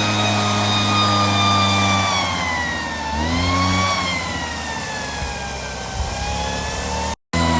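An engine running at changing speed: its pitch slowly sinks, rises briefly about three seconds in, then falls away again. It cuts out abruptly near the end.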